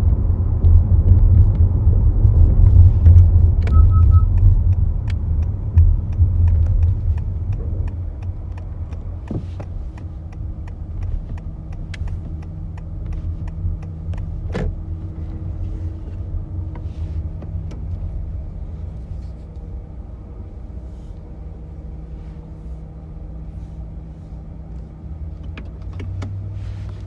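Low road and drivetrain rumble inside a 2018 Honda Accord Hybrid, picked up from the driver's floor under the seat. It is loudest for the first eight seconds or so, then quieter and steady, with a few sharp knocks and a quick triple beep about four seconds in.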